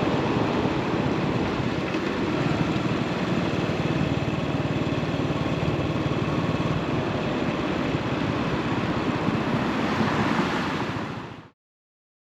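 Yamaha SR400 single-cylinder motorcycle running at steady speed with heavy wind rush over the microphone, fading out near the end.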